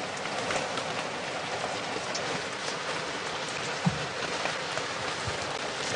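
Pouring rain falling on a plastic tarpaulin overhead: a steady hiss with scattered drop hits, and one dull knock about four seconds in.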